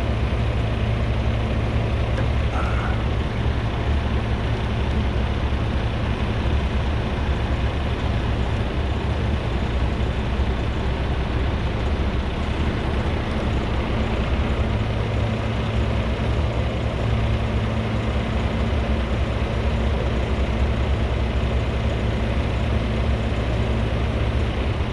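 Heavy truck's diesel engine running steadily, powering the wrecker's winch lines during a recovery pull.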